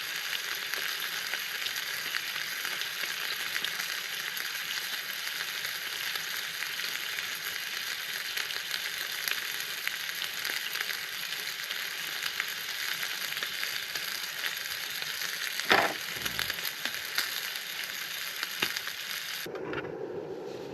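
NY strip steak frying in a pan on an MSR camp stove: a steady crackling sizzle, with a sharp clink about 16 seconds in. Near the end the sizzle cuts off abruptly and a lower steady hum takes over.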